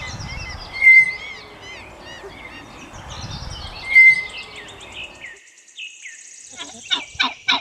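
Tapir giving high-pitched whistling squeals, a string of short gliding chirps with the loudest about a second in and again about four seconds in.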